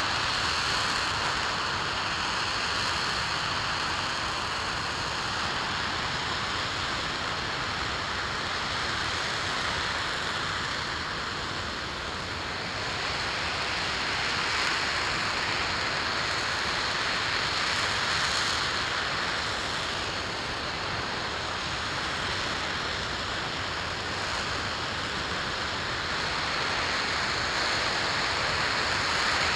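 RS-25 liquid-hydrogen/liquid-oxygen rocket engine No. 20001 firing steadily in a full-duration test-stand burn: a continuous rushing noise with no break, with a thin steady high whine over it.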